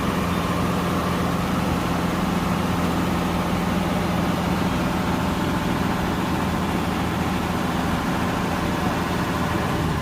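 Truck engine running steadily at a constant speed, an even low hum.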